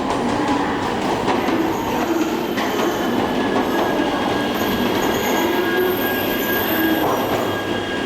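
E3-series mini-shinkansen train moving slowly through the station: a steady rumble with thin, high squealing tones held over it.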